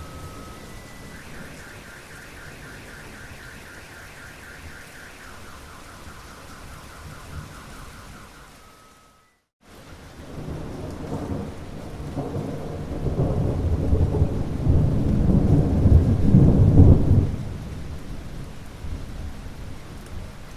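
Steady rain with a high warbling trill over it, then a brief dropout to silence. After it, rain returns with a rolling thunder rumble that builds to its loudest a few seconds before the end and then dies away.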